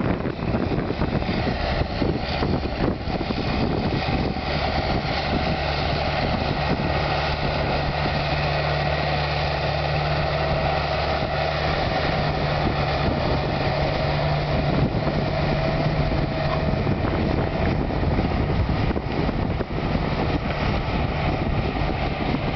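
Massey Ferguson 5455 tractor's diesel engine running steadily under load as it pulls a three-furrow plough.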